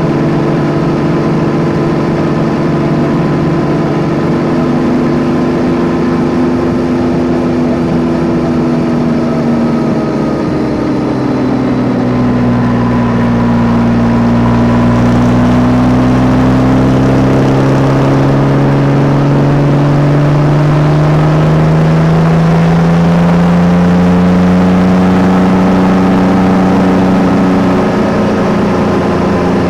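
Yamaha Tracer 9 GT's three-cylinder engine running under way. The revs drop a little about a third of the way in, then climb steadily through the middle and ease off slightly near the end.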